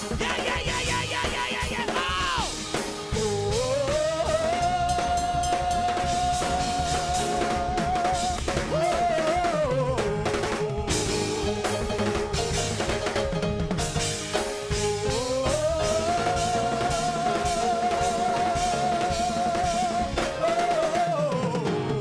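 Live church worship music: a drum kit keeping a steady beat under long held notes that waver in pitch and step up and down between two pitches.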